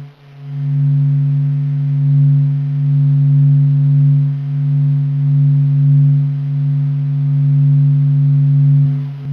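Steady low droning hum made of a few held tones with faint overtones: a sonification of the Sun's vibrations, sped up into hearing range. It drops out briefly just after the start and again shortly before the end.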